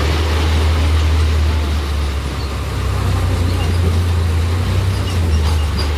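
Farmtrac tractor's diesel engine running steadily, a deep continuous drone.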